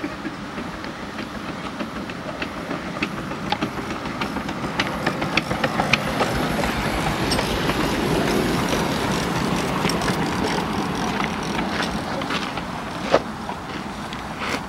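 Miniature railway train running along the track: steady running noise with many sharp irregular clicks of wheels over rail joints, growing louder towards the middle and easing off near the end.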